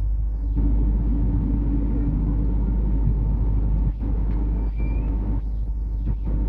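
Steady, loud rumble of a train at a railway station, with a constant hum and a few sharp clicks about four seconds in.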